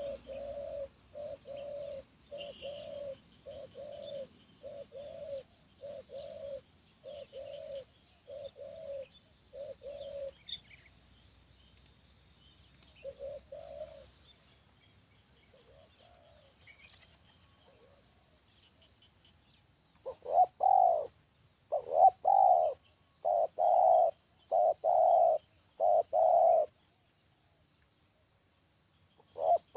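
Spotted dove (tekukur) cooing, a big-voiced bird: a run of evenly spaced low coos for the first ten seconds, a pause, then a louder run of coos from about twenty seconds in until about twenty-six. A steady high insect hiss sits under it.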